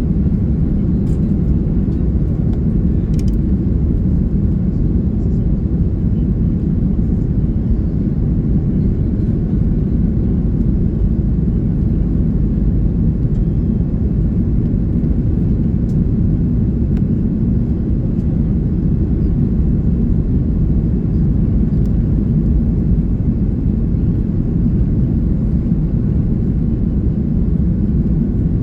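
Cabin noise inside an Airbus A330-300 in flight: a steady low rumble of engines and rushing air that holds at an even level.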